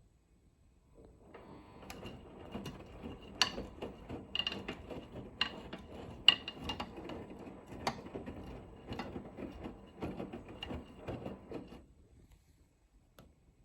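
Hotpoint laundry machine's drum starting to tumble, with a steady high-pitched buzz and irregular clicks and knocks; it starts about a second in and stops near the end. The buzz appears as the drum begins to turn, and the owner does not know whether it is normal.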